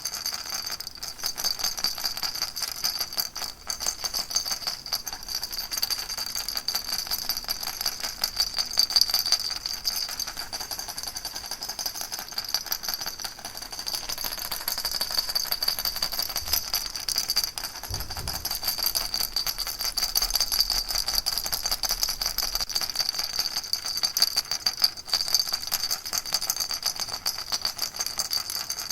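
Baby rattle shaken continuously: a dense, even rattling of many small rapid clicks, with a steady high ringing tone over it.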